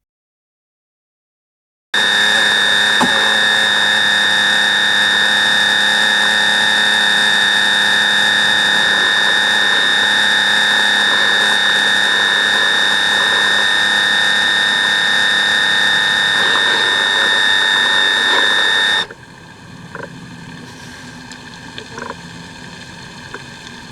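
Radio-controlled model boat's motor running at a steady speed with a high, even whine. It starts abruptly after a brief silence, and near the end it drops sharply to a much quieter hiss with a few clicks.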